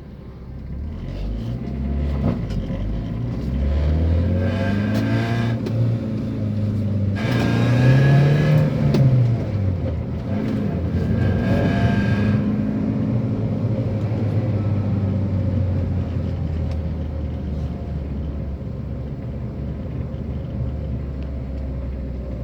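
Van engine and exhaust revving up and easing off three times, the pitch climbing and the exhaust getting rougher at each peak, then settling into a steady lower run.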